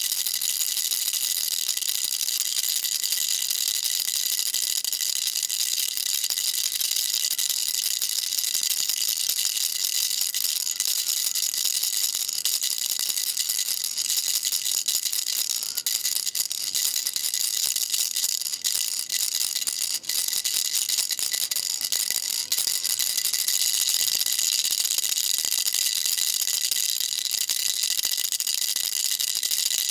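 Baby rattle shaken continuously: a dense, high-pitched rattling without pauses, briefly thinning a few times around the middle.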